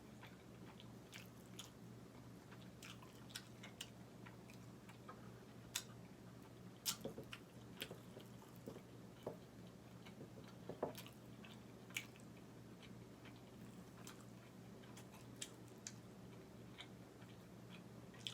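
Close-miked eating: chewing food with scattered soft wet mouth clicks and smacks, a few sharper ones about seven and eleven seconds in, over a faint steady low hum.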